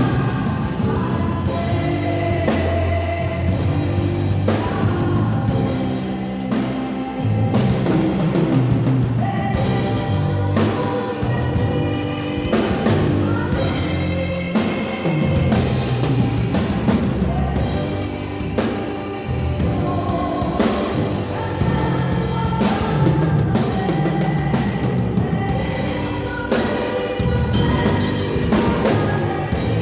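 Gospel worship music played by a band, with a steady drum-kit beat and bass under held melodic notes.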